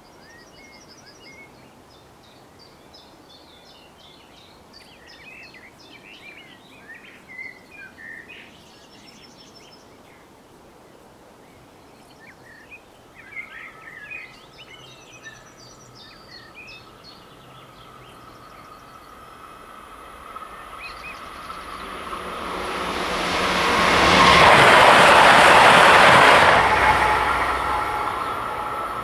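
Birds singing, then a Stadler FLIRT electric multiple unit passes the level crossing: a thin steady tone comes in about halfway through, and the train's sound builds over several seconds to a loud rush before fading near the end.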